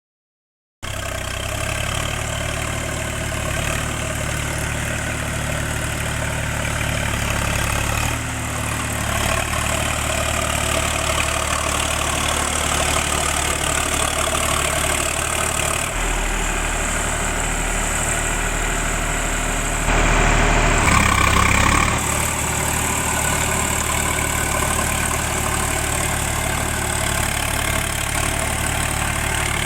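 Sonalika DI 47 tractor's diesel engine running steadily. It gets briefly louder about two-thirds of the way through.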